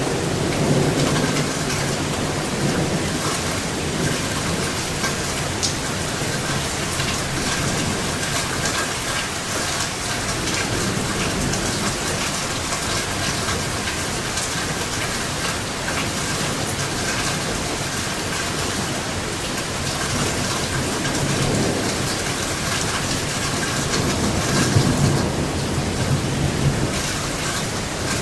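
Steady rain falling, with thunder rumbling low at the start and again about three-quarters of the way through, swelling to its loudest near the end.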